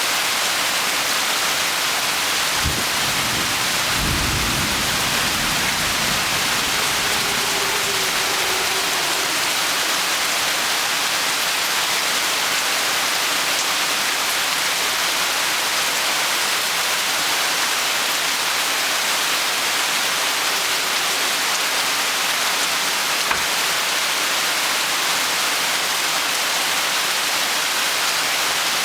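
Heavy rain falling steadily in a tropical downpour, a dense, even hiss, with a short low rumble of thunder about four seconds in.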